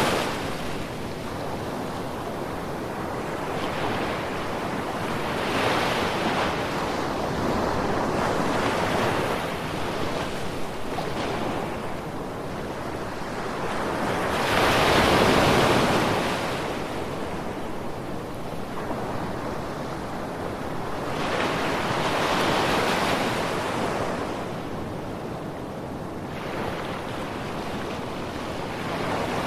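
Ocean waves breaking and washing on a shore, swelling and falling every few seconds, with the biggest wave about halfway through.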